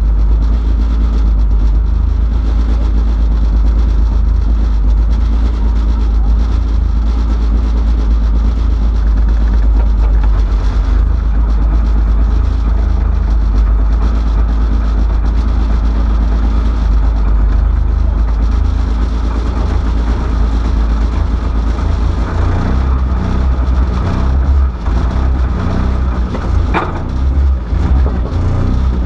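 Rally car engine idling, heard from inside the cabin, turning uneven and pulsing in the last several seconds before the stage start, with one short click near the end.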